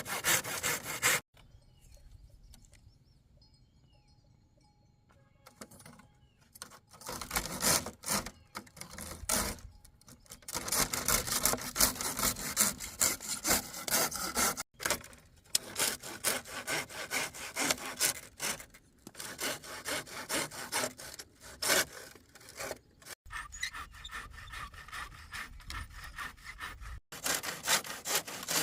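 A saw cutting wood in steady back-and-forth strokes. The sawing stops for a few seconds after about a second, then resumes and keeps going, breaking off abruptly a few times.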